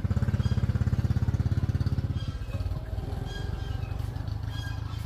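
Small engine running with a fast, even putter that eases and turns rougher about two seconds in.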